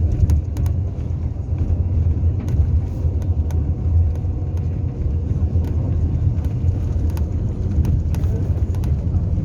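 Steady low rumble of a vehicle's engine and running gear, heard on board, with scattered light clicks and rattles.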